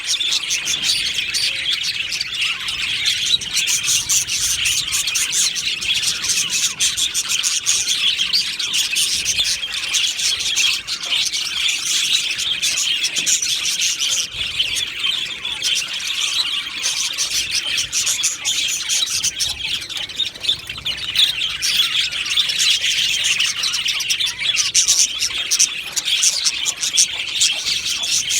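Flock of budgerigars chattering and chirping without a break, many short warbling calls overlapping at once.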